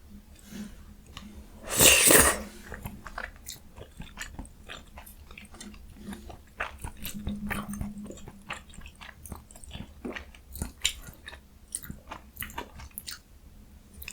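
Close-miked chewing and biting of jjajang ramyun and young radish kimchi, with many short wet mouth clicks. A loud noisy burst about two seconds in is the loudest sound.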